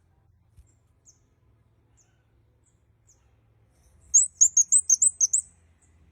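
Kemade kepala merah, a small myzomela honeyeater, calling: sparse faint high chips, then about four seconds in a loud, fast run of about eight sharp, very high notes lasting about a second and a half.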